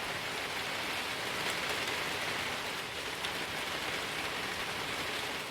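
Steady hurricane rain, an even hiss with no let-up.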